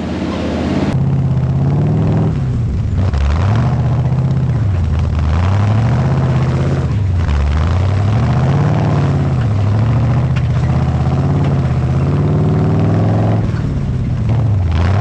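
Truck engine revving up and down repeatedly, its pitch rising and falling about every two seconds, typical of crawling over rough rock.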